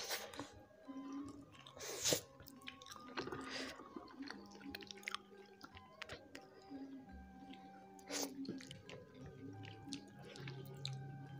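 Close-miked chewing and wet mouth sounds of a person eating yellow-spiced tilapia by hand, with scattered sharp smacks and clicks, the loudest about two seconds in and again about eight seconds in.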